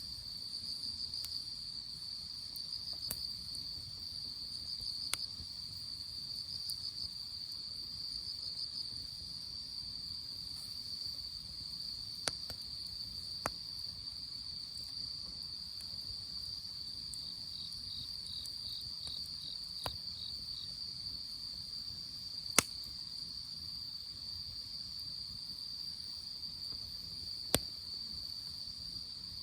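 Crickets trilling steadily at a high pitch, with a second insect chirping in short even pulses for a few seconds midway. A crackling campfire gives a few sharp, scattered pops, the loudest about two-thirds of the way through.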